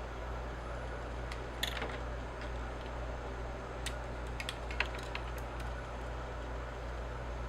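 A few scattered light clicks and taps of small hard objects being handled, over a steady low hum.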